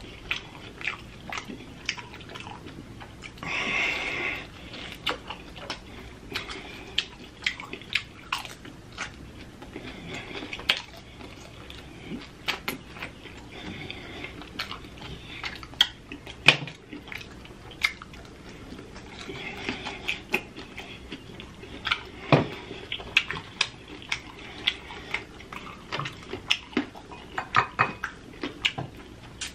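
Close-miked chewing and wet lip-smacking of sauce-coated fried chicken wings, with many sharp mouth clicks throughout and a hiss lasting about a second, about four seconds in.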